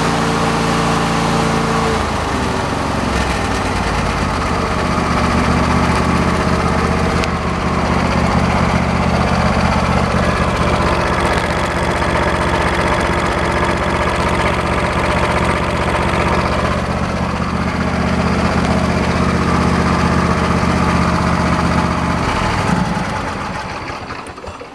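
John Deere 135 lawn tractor's 22 hp Briggs & Stratton Intek V-twin engine running steadily, its pitch shifting about two seconds in, then shut off and running down near the end. It is a good running engine.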